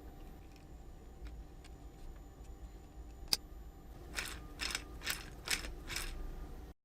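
Small metal parts of a miniature model engine being handled and fitted: light scattered clicks, one sharp click, then five short rasping strokes about half a second apart. The sound cuts off suddenly near the end.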